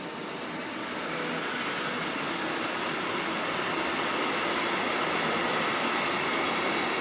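A train approaching and passing along the line, its noise growing louder over the first second or two and then holding steady, with the rolling noise of wheels on rails.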